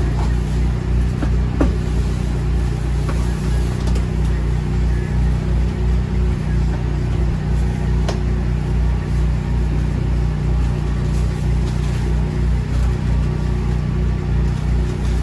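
A steady low engine-like drone with a slight pulsing, with a couple of faint clicks, one about a second and a half in and another near the middle.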